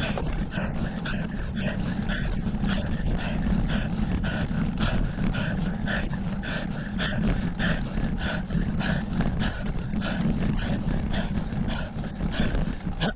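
A cyclist panting hard and fast while climbing a steep hill, about two to three breaths a second, over a steady low rumble of wind on the helmet or bike camera's microphone.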